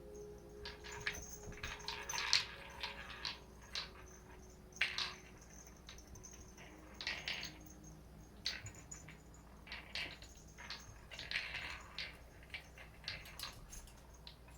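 Cats playing: irregular rustling, scuffling and light clicks and clatters, in short bursts a second or so apart.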